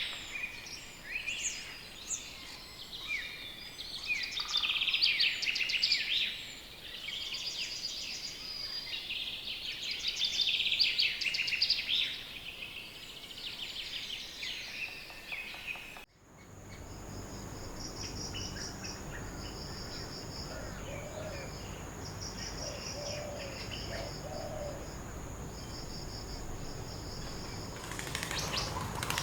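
Several birds singing and chirping together, busy and overlapping. About halfway through, the sound cuts off abruptly and gives way to insects chirping in regular pulsed trains over a steady high whine, with a few faint bird notes.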